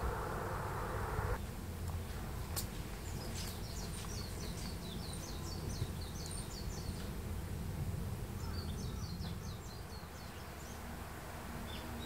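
A small bird singing a rapid run of short, high chirps about three seconds in, and a shorter run again near nine seconds, over a steady low rumble. A buzzing hum, like flying insects, fills the first second or so and then stops abruptly.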